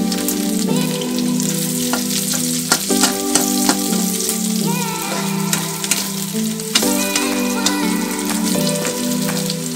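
Food frying in hot oil in a pan, sizzling steadily, with repeated clicks and scrapes of a spatula as it is stirred. A soft melody in background music plays underneath.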